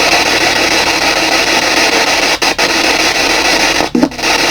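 P-SB7 spirit box sweeping through radio stations, giving a steady hiss of static that cuts out briefly twice, about two and a half and four seconds in.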